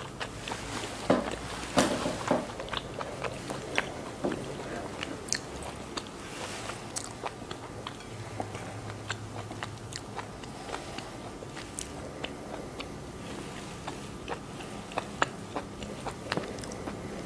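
Close-miked chewing of a fresh Vietnamese spring roll: soft, wet mouth sounds with scattered small clicks, a few louder ones in the first couple of seconds.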